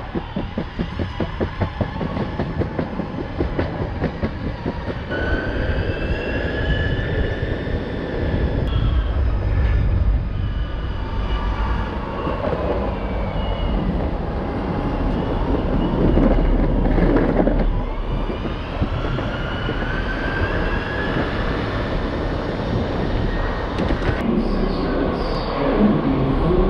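A train running along the rails with a steady low rumble and rapid regular clicking from the wheels in the first few seconds. Wheel squeal comes in high drawn-out tones that rise and fall, once about a fifth of the way in and again past the middle.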